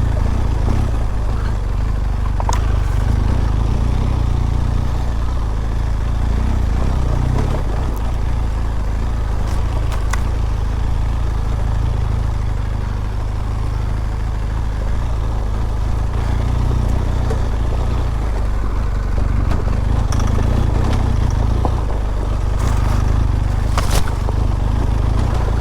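BMW R1200GS flat-twin engine running steadily at low speed on a rough dirt track, heard from the rider's helmet microphone, with a few sharp knocks now and then.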